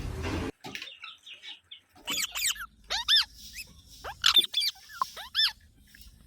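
A parrot giving a run of short, high calls, each rising and then falling in pitch, starting about two seconds in and repeating roughly every half second to second. A brief burst of noise comes at the very start.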